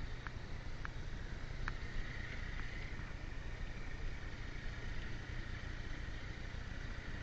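Steady noise of a motorcycle on the move, with no clear engine note standing out. A few faint clicks come in the first two seconds.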